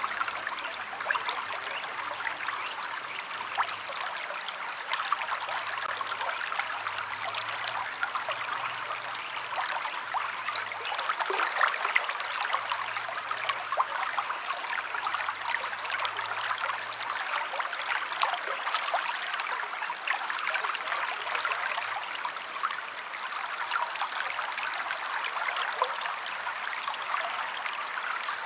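River water flowing steadily, a constant dense rush of small splashes and trickles.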